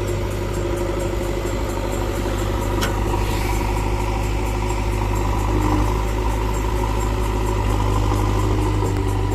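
An engine running steadily at idle: a constant low hum with an even, fast ticking over it.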